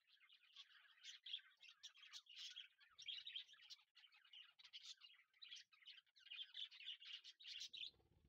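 Faint chorus of small birds chirping and twittering continuously, with a brief low sound near the end.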